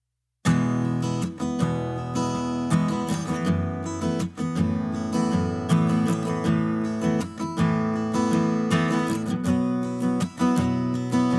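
Background music of a strummed acoustic guitar, starting abruptly about half a second in.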